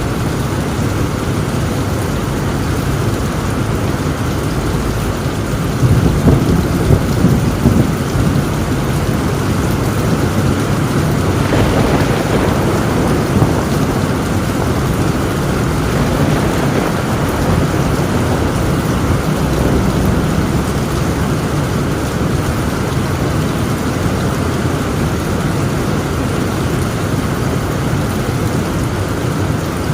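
Torrential rain drumming steadily on a tin roof. A roll of thunder rumbles in about six seconds in and fades over a couple of seconds.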